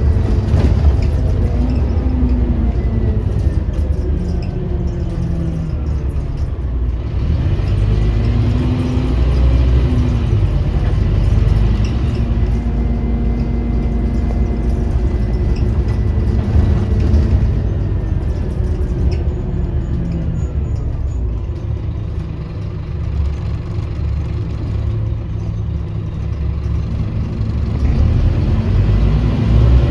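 Scania Omnicity bus's diesel engine and road rumble heard on board, the engine note rising and falling several times as the bus pulls away, runs through its gears and eases off.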